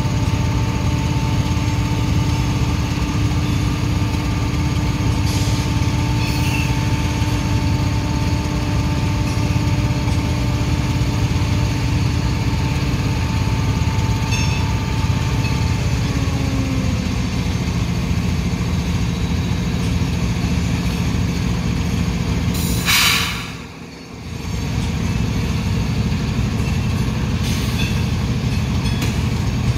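Diesel locomotive engine running steadily, its pitch stepping down about halfway through as the throttle eases, while loaded coal hopper cars roll past with occasional wheel clicks and squeals. A short, sharp high squeal or hiss cuts in about three quarters of the way through.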